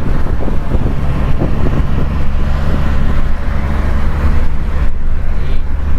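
A motor running steadily at an even pitch, with wind rumbling on the microphone.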